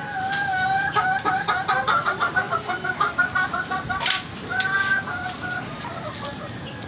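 Aseel chicken clucking: a rapid run of short repeated notes, then a longer call around the middle, with a sharp click just before it.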